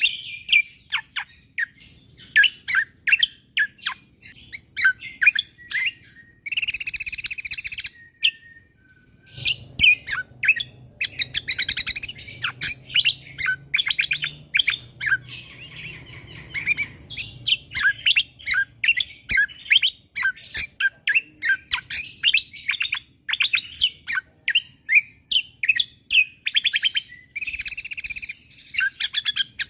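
Cucak kombo (kecial kombo) songbird singing energetically: a fast, busy stream of short high chirps in rapid strings, broken by dense trilled bursts about a quarter of the way in and near the end, with a brief pause about 8 seconds in.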